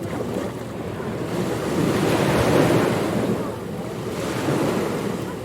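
Ocean surf washing onto a beach: a wave surges up to a peak about halfway through and recedes, with a smaller swell near the end.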